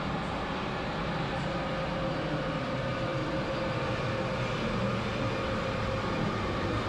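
Polish Intercity passenger train at a station platform, a steady rumble with a faint steady whine.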